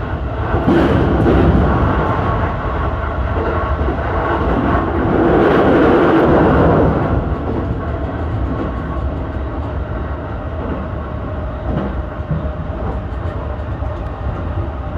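E233-1000 series electric commuter train running between stations, heard from inside the front car: a steady rumble of wheels on rail and running gear. It swells louder about a second in and again for a couple of seconds around the middle.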